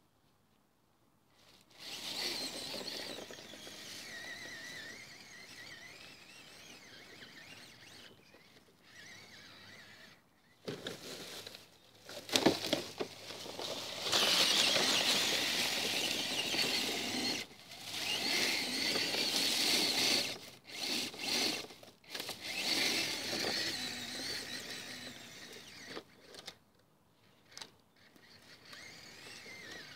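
Radio-controlled truck's motor and gears whining in repeated bursts of throttle, with short pauses between, loudest about halfway through.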